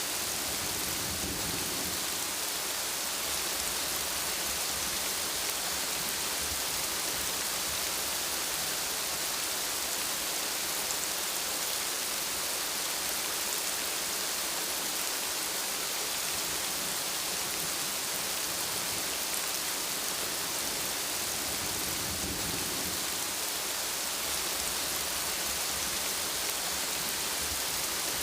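Steady heavy rainfall, an even hiss of drops on surfaces, with two faint low rumbles of distant thunder: one near the start and one near the end.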